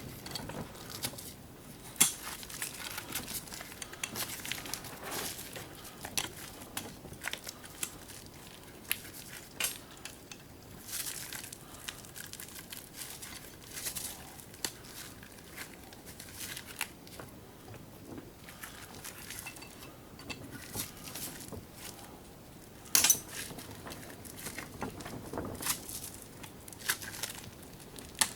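Rival can opener being pulled apart by hand: small metal parts clinking, scraping and rustling, with scattered clicks, two of them sharp and loud, one early and one later.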